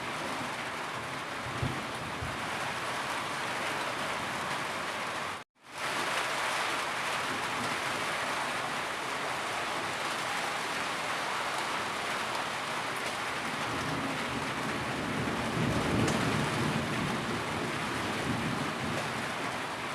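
Steady heavy rain, an even rushing hiss of rainfall with some low rumble in it. It cuts out for a split second about five and a half seconds in, then resumes.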